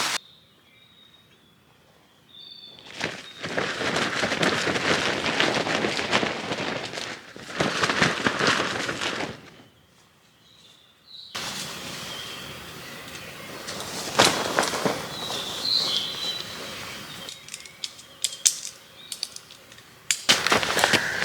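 Forest ambience cut between takes: small birds chirping in the quiet stretches, alternating with louder stretches of rustling, crunching noise with many small clicks.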